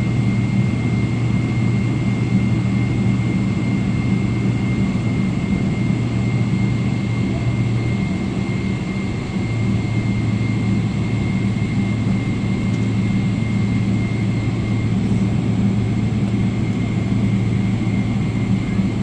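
Boeing 777 jet engines heard from inside the passenger cabin: a steady loud drone with a thin high whine above it, dipping briefly about halfway through.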